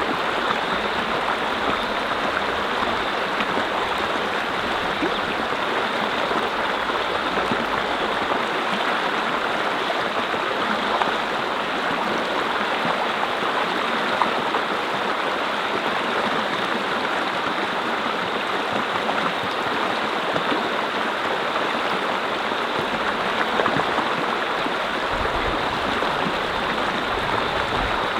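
Mountain brook flowing over rocks: a steady, even rush and babble of water with no pauses.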